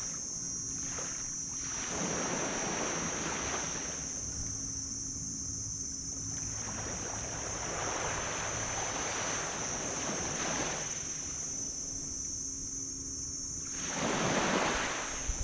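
Small waves washing up on a beach, surging in about four times. Under the waves runs a steady high-pitched insect drone, with a faint low hum beneath.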